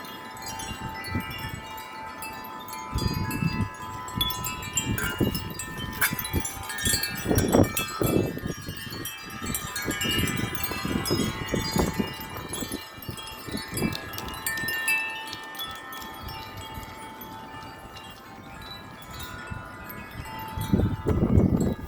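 Several wind chimes ringing continuously in strong, gusty wind, many overlapping tones clanging as the gusts push them, with wind buffeting the microphone in irregular gusts.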